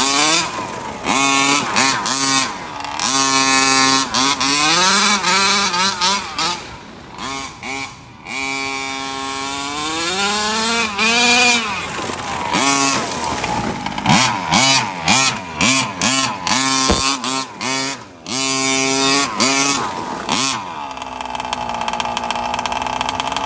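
Small two-stroke gas engine of a 1/5-scale RC car, fitted with a Dominator tuned pipe, revving in repeated throttle bursts, its pitch climbing and falling again and again. About 21 seconds in it drops to a steady idle.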